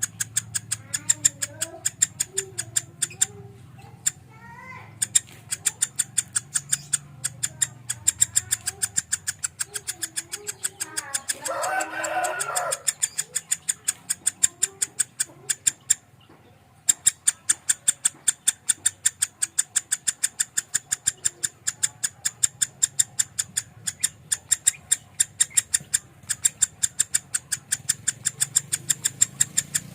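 Lovebird singing in the rapid 'konslet' style: a fast, even run of sharp high chirps, about four a second, that breaks off twice briefly. Lower warbling phrases come in the first few seconds, and a louder warbled burst comes near the middle.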